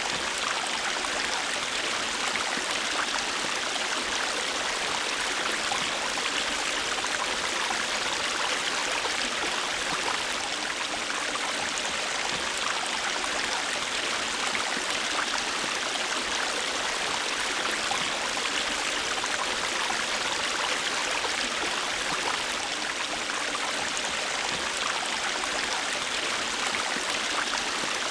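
A river flowing steadily: an even, unbroken rush of running water.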